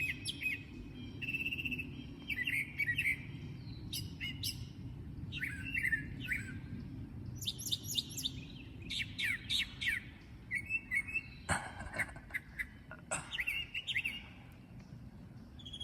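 Songbirds chirping and singing in quick short calls, many sweeping down in pitch, over a steady low rush of flowing creek water. A couple of sharp knocks sound near the end.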